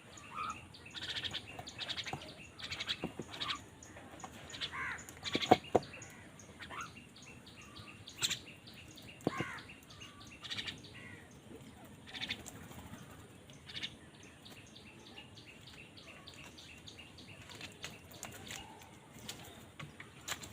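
Crows cawing, many short harsh calls in quick succession, busiest in the first half and thinning out later. A couple of sharp knocks about five and a half seconds in are the loudest sounds.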